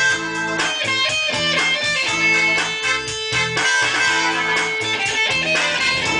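Guitar music: quick plucked notes over a steady, rhythmic bass line.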